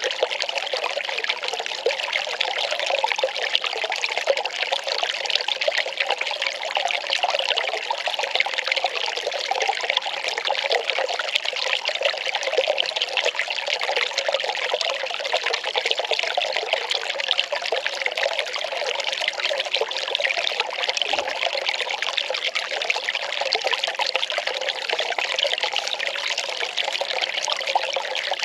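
Well water pouring and trickling in a steady, unbroken stream.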